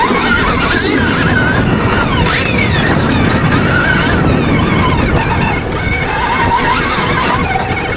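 Stark Varg electric motocross bike's motor whining, its pitch rising and falling over and over with the throttle, over a steady low rush of wind and dirt noise.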